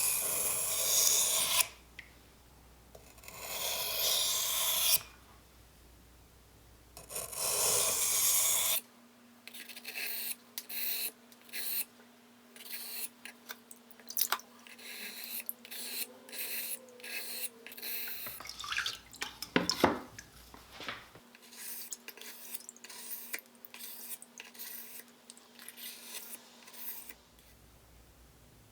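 Smith & Wesson lockback knife blade being sharpened on an 800-grit water stone: first three long rasping strokes of about two seconds each, then a long run of short, quick scraping strokes.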